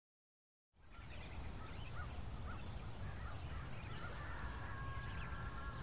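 Outdoor rural ambience fading in after a moment of silence: a steady low rumble with scattered short bird calls, and a few longer whistled notes near the end.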